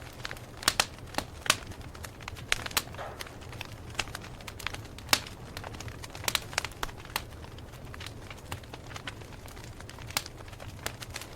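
Campfire crackling: irregular sharp pops and snaps of burning wood, some louder than others, over a low steady hiss of the flames.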